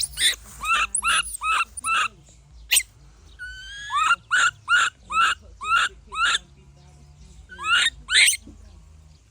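Baby monkey crying: a series of short, high-pitched squealing calls, two to three a second, in three runs broken by brief pauses, with two last calls near the end.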